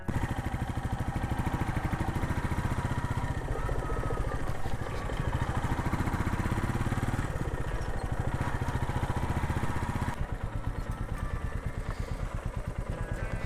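Motorcycle engine running steadily while riding, heard from the bike itself with a low, even pulsing beat. The sound softens a little about ten seconds in.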